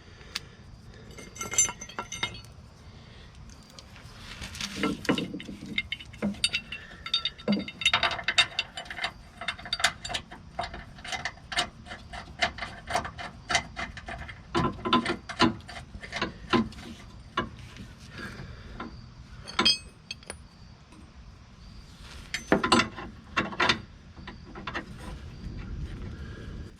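Bolts, a wrench and a steel skid-plate bracket clinking and rattling as the bracket is bolted on, in irregular runs of sharp metal clicks with short ratcheting stretches.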